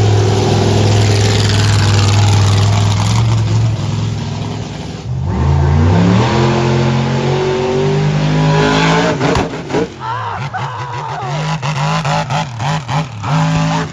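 Racing car engine running hard at steady high revs for about five seconds. Then, after an abrupt change, an engine accelerates, its pitch climbing in steps through the gears. Near the end the engine sound drops back and is mixed with voices.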